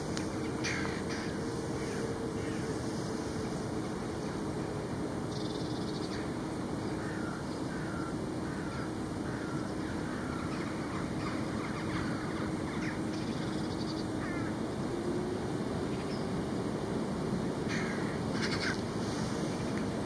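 Birds calling in short, repeated caws, a run of about two calls a second in the middle and a few more near the start and near the end, over a steady low outdoor rumble with a faint drone.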